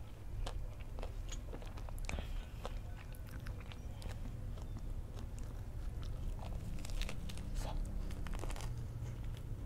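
Close-up chewing of a crispy-coated fried sausage, with sharp crunching crackles from the fried coating throughout. The crunching gets thickest near the end as a fresh bite is taken.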